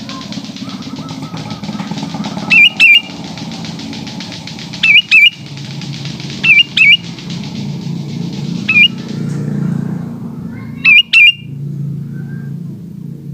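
Sooty-headed bulbul (kutilang) giving loud, short whistled calls, mostly in pairs of notes, five bursts about two seconds apart. Behind them runs a steady high hiss that fades out about ten seconds in, with a low rumble throughout.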